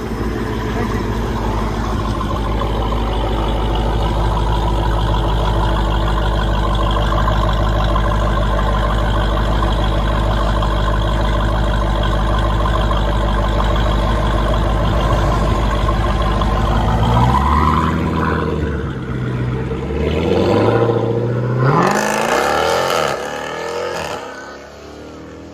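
Jeep Grand Cherokee Trackhawk's supercharged 6.2-litre V8 with an aftermarket exhaust, running hard at a steady pitch. About seventeen seconds in, the engine note drops, swoops down and up again a few times, then fades away near the end.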